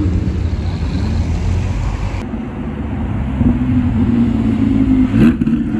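Car engines running as cars drive slowly past, a steady low rumble. About five seconds in, one engine gives a quick rising rev.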